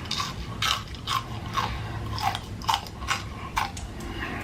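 A person chewing crunchy fried food, with about two crunchy chews a second.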